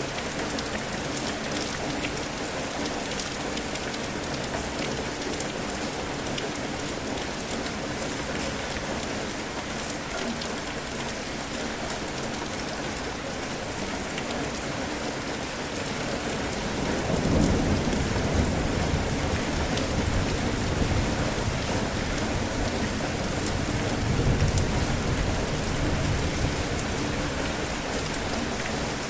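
Steady heavy rain falling, with a low rumble of thunder rolling in about two-thirds of the way through and swelling twice before fading.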